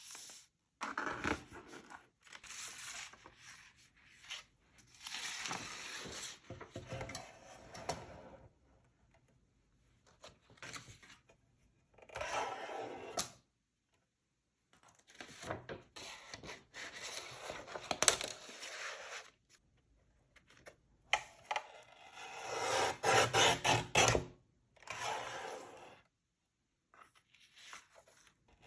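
Paper being handled, rubbed and scraped during journal crafting, in separate bursts of a second or two with silent gaps between them.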